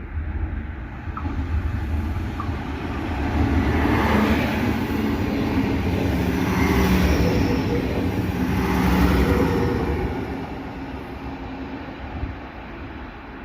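Train running past on station tracks: a low rumble with a steady mechanical hum that grows louder, holds for several seconds, then fades from about ten seconds in.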